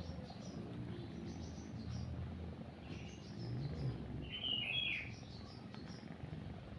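Small birds chirping in short scattered calls, loudest in a brief flurry a little past the middle, over a low steady purring of a cat that fades about two-thirds of the way through.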